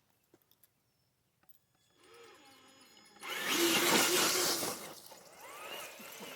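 Electric motor and gearbox of a radio-controlled crawler truck whining as it drives, the pitch rising and falling with the throttle. It starts faint about two seconds in and turns loud a second later, with a rush of noise from the drive.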